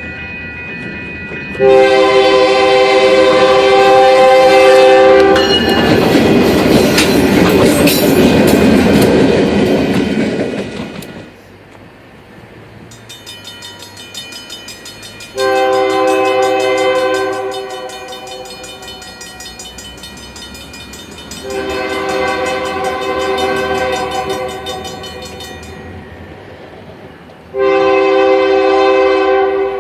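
Diesel locomotive air horn sounding several long blasts as a freight train passes. A loud rush of locomotives and wheels goes by between the first and second blasts, and a faint rolling clatter of the cars runs under the later blasts.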